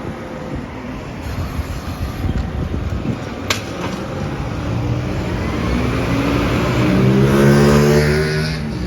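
Garbage truck's engine revving up, rising in pitch and getting louder over several seconds before dropping back near the end, with a sharp click about three and a half seconds in.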